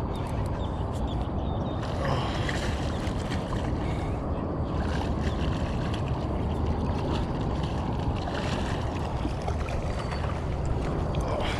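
Steady low rumble of wind on the microphone, with scattered small clicks and splashes while a hooked peacock bass is played on the line.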